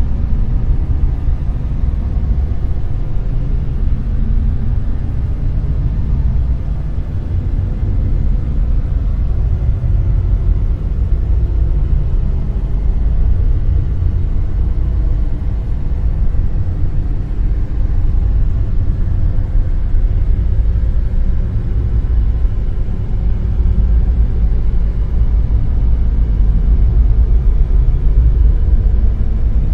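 Dark noise sound effect: a loud, steady, deep rumbling noise with no tone in it, its weight in the bass. It swells and eases slightly and slowly, dipping a little about a quarter of the way through and rising again near the end.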